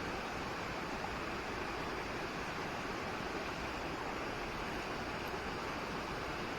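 Steady rush of a mountain stream's flowing water, an even noise with no breaks.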